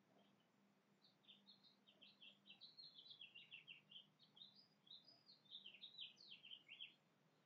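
A songbird singing one long song of rapid, varied chirping notes that starts about a second in and stops about a second before the end, faint, over a low steady hum.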